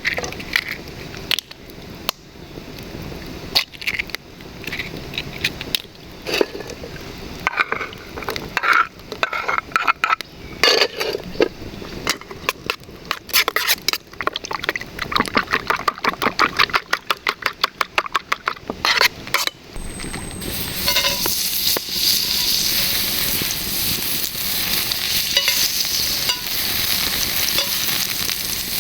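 Camp cooking: scattered knocks and clinks of utensils and cookware, with a run of quick, evenly spaced strokes at about five a second. About twenty seconds in, food goes into a hot pan and a steady frying sizzle starts.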